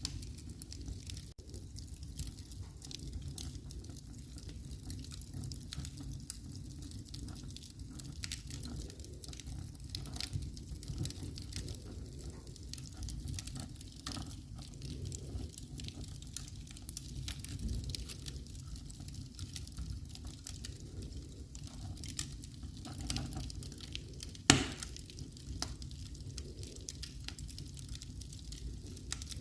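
Wood fire in a fireplace crackling, with many small scattered pops over a low steady rumble and one loud sharp pop late on.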